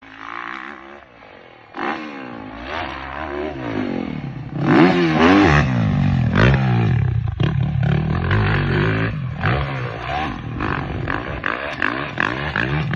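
Motocross bike engine revving hard on the track, its pitch climbing and dropping again and again as the rider accelerates and shifts. It gets louder about two seconds in, and louder again about five seconds in.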